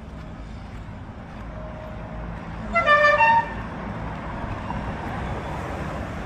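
A car horn sounds once for about half a second, over the steady low rumble of a car on the road.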